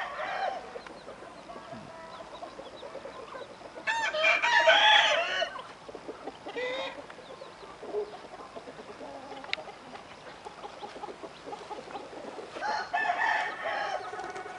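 Aseel roosters crowing: a loud crow about four seconds in and another near the end, with a shorter call in between.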